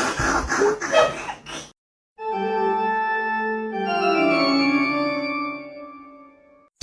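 Organ music: held chords that change a few times and slowly fade out, starting after a short silent gap.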